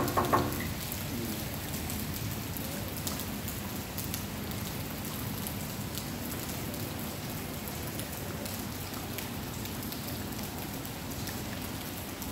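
Heavy rain pouring steadily, a constant hiss dotted with sharp drip ticks.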